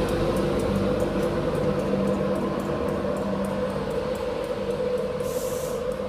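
InterCity 225 train hauled by a Class 91 electric locomotive, running at the platform: a steady hum with two held tones and light rapid ticking, slowly fading, with a short hiss about five seconds in.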